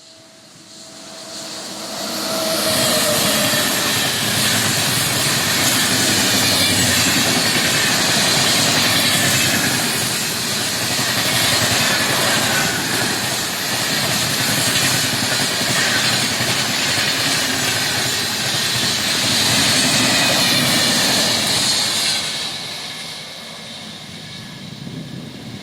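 Superfast express train passing at high speed, a loud steady rush of wheels on the rails and carriages rattling. It builds over the first couple of seconds, holds for about twenty seconds, then falls away.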